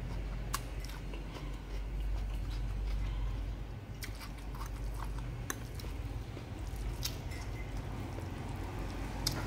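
A person chewing a mouthful of spicy instant noodles, picked up close by a lapel microphone, with small sharp mouth clicks every second or two over a low steady hum.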